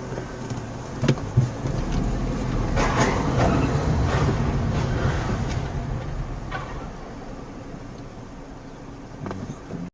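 Road and engine noise of a moving vehicle as picked up by a dashcam, with two sharp knocks about a second in. The noise swells around three seconds in, then slowly fades.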